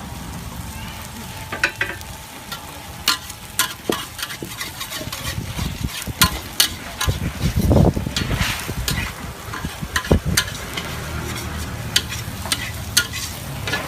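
Street-food cooking: food sizzling on a hot pan while a metal utensil clacks and scrapes against it in quick irregular strikes, with one louder thump about halfway through.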